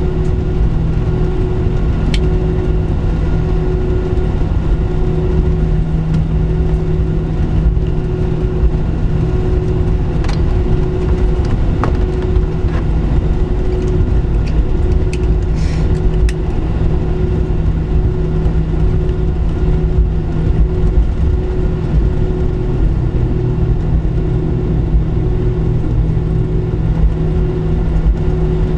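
Boeing 737-700's CFM56-7B jet engines and airframe heard from inside the cabin: a loud, steady drone over a deep rumble, with a humming tone that pulses evenly.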